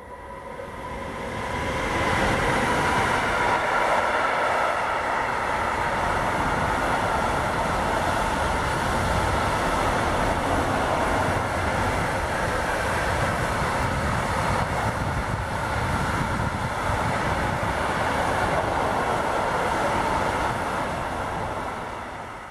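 Intermodal freight train hauled by an SBB Cargo class 482 electric locomotive passing close by. Its wagons roll over the rails with a steady, loud running noise that builds over the first two seconds and eases off near the end.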